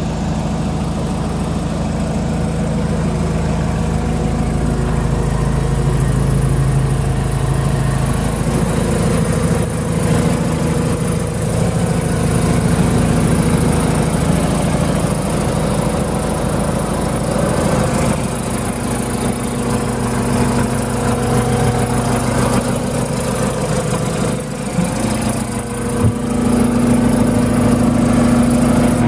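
New Holland L218 skid steer's diesel engine running steadily, its engine speed shifting a few times.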